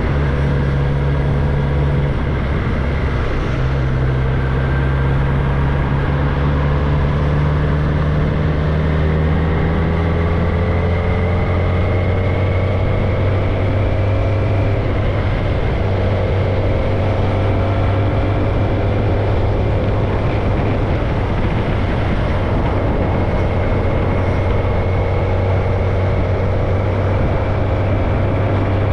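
Kawasaki ZX-10R's inline-four engine running with no tailpipe on its exhaust, heard from on board while cruising. The engine note rises slowly in pitch over the first half, then holds steady.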